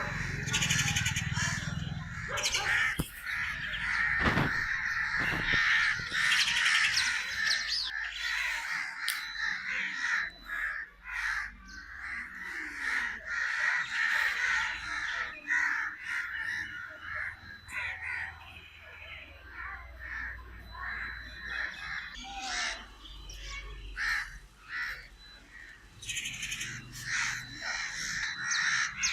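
Crows cawing over and over, many calls overlapping, busiest for the first several seconds and again near the end.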